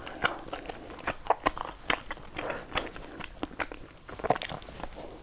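A person chewing a mouthful of food with wet lip-smacking, many short irregular clicks.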